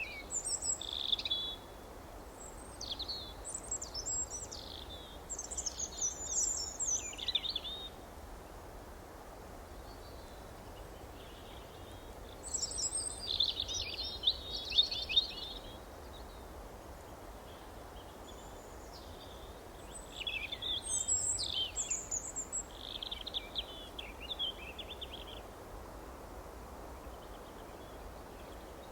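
Small birds singing in spells of quick, high chirps and trills, with pauses between them, over a steady low background noise.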